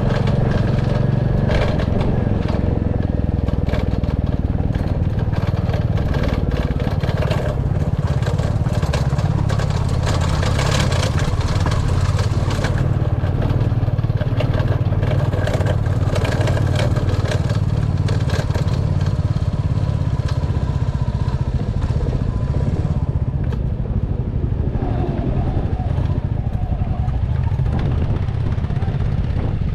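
Royal Enfield Classic 350's single-cylinder engine running steadily under way, with frequent clatter and knocks from the rough track under the wheels that thin out after about twenty seconds.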